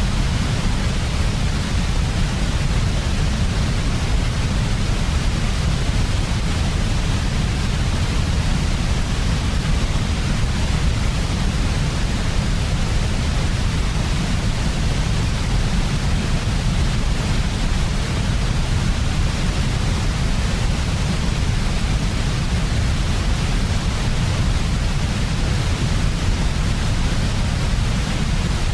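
Steady, unchanging white noise, heaviest in a deep low rumble beneath an even hiss.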